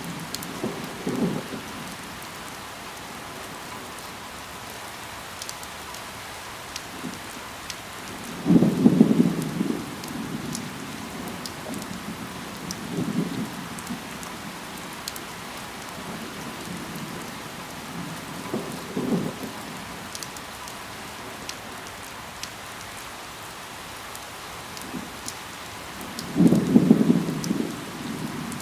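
Steady rain falling, with fine drop ticks throughout and five louder low rumbling swells, the strongest about a third of the way in and near the end.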